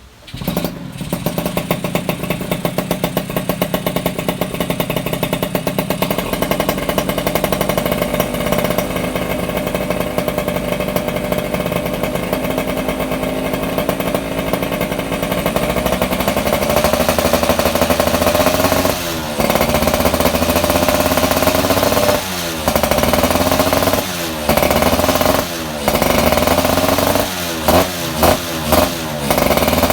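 Yamaha F1ZR two-stroke single-cylinder engine running through a BM Power aftermarket racing exhaust, idling with a fast, even pulse that gradually rises in pitch, then revved in a series of short throttle blips during the second half.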